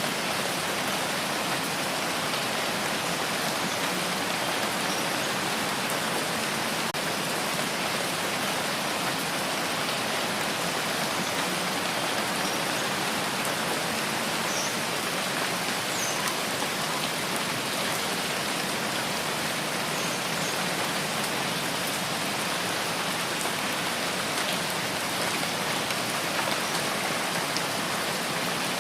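Steady rain falling, an even hiss of many drops with faint scattered drip ticks, unchanging in level.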